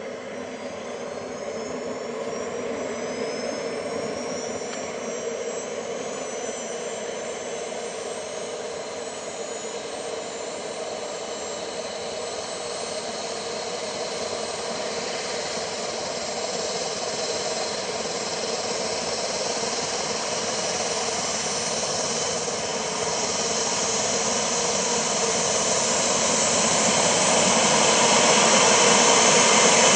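Model turbine jet engine running, with high whining tones rising in pitch over the first several seconds. The roar grows steadily louder toward the end.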